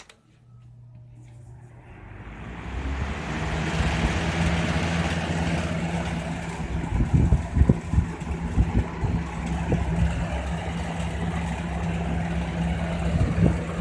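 1999 Lasko 3733 20-inch box fan switched on at high: a click, a low motor hum, then the rush of air builds over about three seconds as the blades spin up and runs steadily. Low thumps come and go from about seven seconds in.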